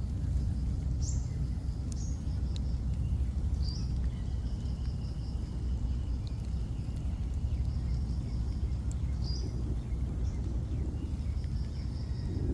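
Small birds calling repeatedly, each call a short rising note followed by a rapid high trill, over a steady low rumble.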